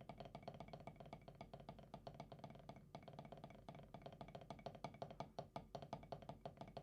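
Drumsticks playing a beginner's buzz (press) roll: a fast, dense stream of faint stick strokes with brief breaks about three and five and a half seconds in, the strokes still uneven rather than a smooth buzz.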